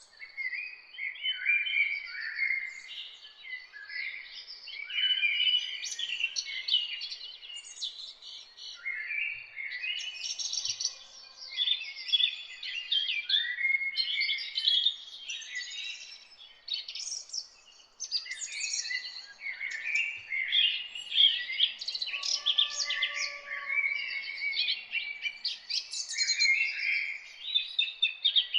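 Several songbirds singing and chirping at once, in quick overlapping phrases of trills and chirps with no real pause, and an occasional fainter, lower whistled note behind them.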